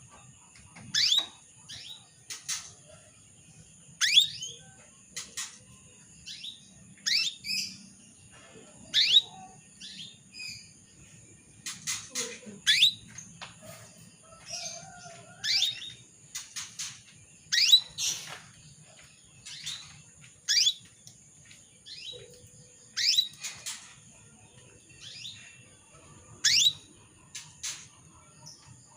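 Female canary giving short, sharp calls over and over, each a quick chirp sweeping down in pitch, about one a second with uneven gaps: the calls of a hen in breeding condition calling to a male.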